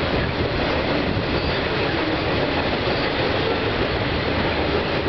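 Autorack freight cars rolling across a steel railway bridge: a steady, loud rumble and rattle of wheels and car bodies that does not let up.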